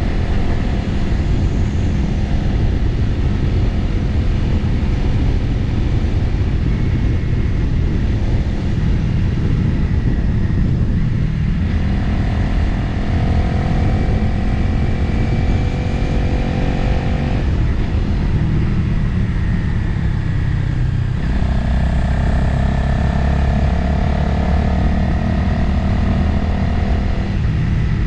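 Motorcycle engine running under way, with wind noise on the microphone. The engine note changes a few times, around 12, 17 and 21 seconds in, as throttle or gear changes.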